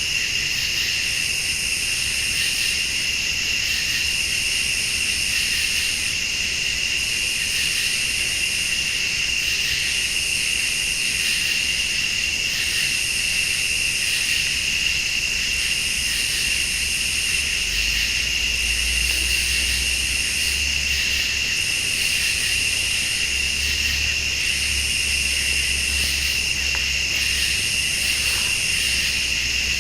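Night insect chorus: crickets trilling in a steady, unbroken high tone, with a higher insect buzz that pulses on and off about every two seconds. A low rumble joins in a little past the middle.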